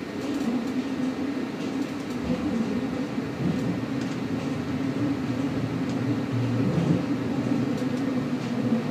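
Rhaetian Railway train on the Arosa line, heard from on board: a steady rumble of wheels on rails with a low hum, with a few faint clicks and a brief deeper swell near the end.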